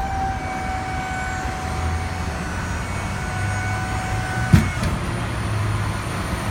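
Hydraulic tuckunder liftgate (Maxon GPT-25LM) whining steadily as the platform is lowered, cutting off with a single clunk about four and a half seconds in. The truck's diesel engine idles underneath as a low steady hum.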